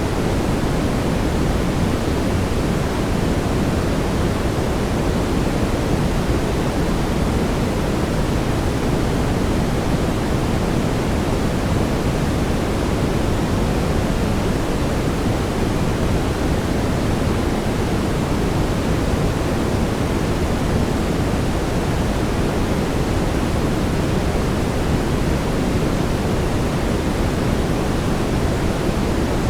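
Steady brown noise: an even, low, rumbling hiss with most of its weight in the bass, unchanging throughout.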